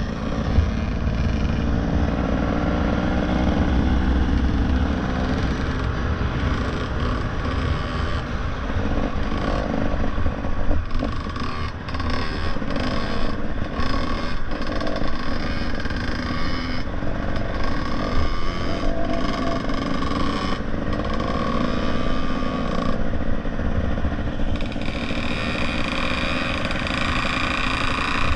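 Motorcycle engine running steadily as the bike is ridden, over a dense low rumble.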